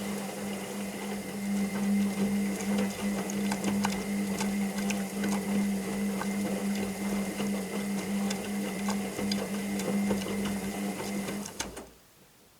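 Washing machine running: a steady motor hum with many small clicks and ticks, which cuts off abruptly near the end.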